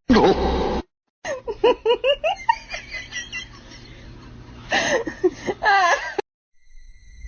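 High-pitched laughter and giggling in quick repeated bursts. It is cut off abruptly just under a second in, resumes, and stops suddenly about six seconds in.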